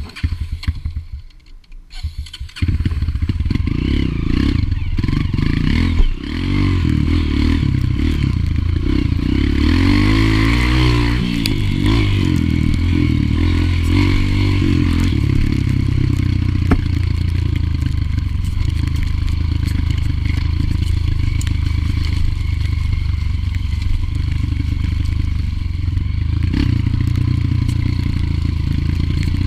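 A few knocks and clatters, then about two and a half seconds in a dirt bike engine comes in loud and keeps running steadily, with a rise and fall in revs around ten seconds in.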